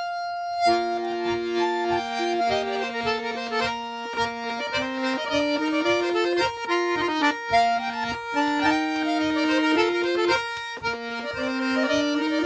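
Accordion playing a tune over held chords, with a regular low pulse underneath.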